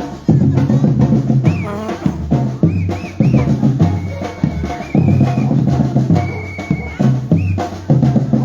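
Batucada street percussion group playing: dense, driving samba drumming with heavy bass drums and snare, and several short high whistle blasts over the top.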